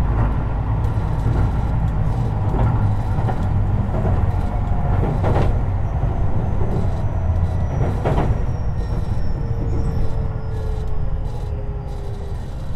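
Tobu 50090 series electric commuter train running, heard from under the car floor: a steady wheel-and-rail rumble with two brief swishing surges about five and eight seconds in. From about six seconds a faint whine slides slowly down in pitch, as the train begins to slow.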